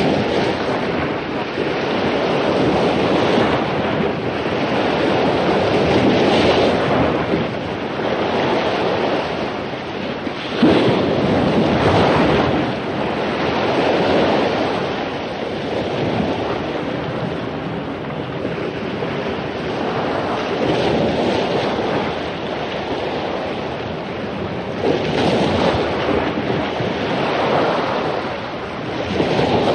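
Heavy surf breaking on a beach after a storm: a continuous roar of waves that swells as each one crashes, with the biggest breaks about ten seconds in and again near the end. Wind rumbles on the microphone.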